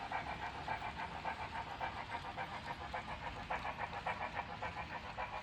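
Steam exhaust chuffing of an AD60 Beyer-Garratt locomotive, as reproduced by a model locomotive's sound unit: a steady rapid beat of about five chuffs a second, with the locomotive working at a constant pace.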